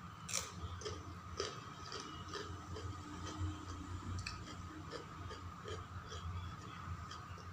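A person chewing food with a run of small wet mouth clicks and smacks, about three a second.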